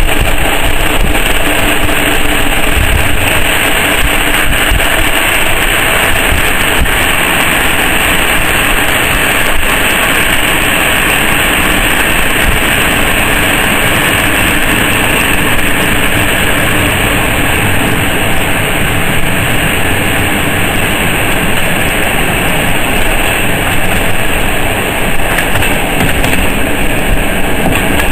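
Passenger train carriage in motion: the loud, steady rumble and rush of wheels running on the rails.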